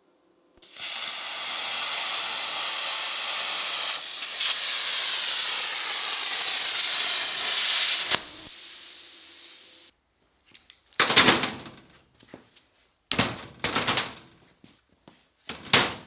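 A steady hiss of metalwork for about seven seconds that then tails off, followed by three short, loud crackling bursts, typical of MIG tack welds on steel sill panels.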